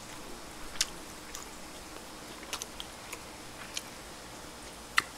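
Quiet eating: a few soft, scattered clicks and smacks of chewing, with one sharper click near the end.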